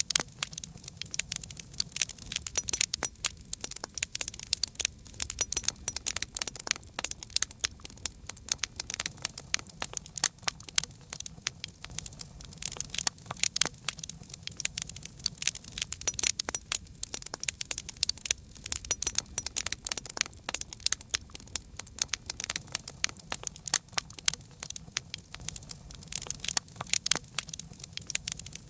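Campfire crackling: dense, irregular snaps and pops over a low steady rumble.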